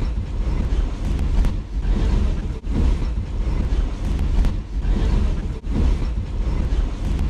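A loop made by the LoopField app from recorded train noise, playing back: a noisy, bass-heavy chunk of train sound that repeats every three seconds, each pass starting after a brief gap.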